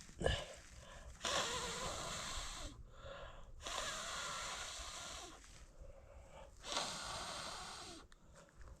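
A person blowing hard three times, each blow lasting over a second, as when blowing on kindling to get a campfire going. A short sharp knock comes just before the first blow.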